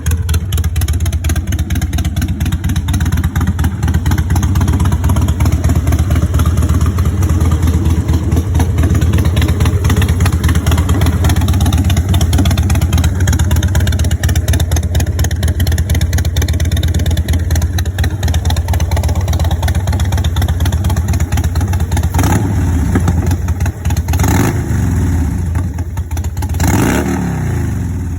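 2006 Harley-Davidson Fat Boy's Twin Cam 88 V-twin idling through Vance & Hines Big Shots pipes with standard baffles. It gives a few quick throttle blips in the last few seconds.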